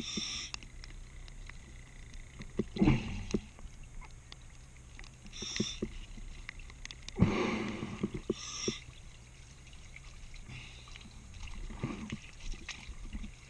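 Underwater, a scuba diver breathing through a regulator: short hissing inhales and louder bubbling exhales every few seconds.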